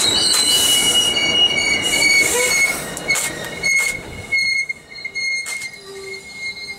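Commuter train coaches rolling past close by, with steel wheels squealing in several steady high-pitched tones and clicking over rail joints. The sound fades away about two-thirds of the way through as the last car passes.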